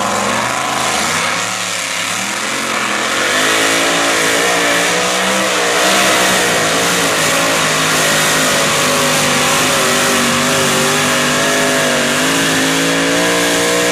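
John Deere Pro Stock diesel pulling tractor running flat out as it pulls the weight sled down the track. The loud engine note holds on throughout, its pitch wavering up and down under the load.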